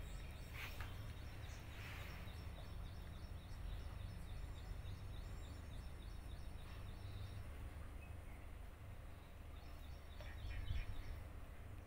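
Quiet outdoor background: a steady low rumble with faint, rapid bird chirping in the distance, coming and going.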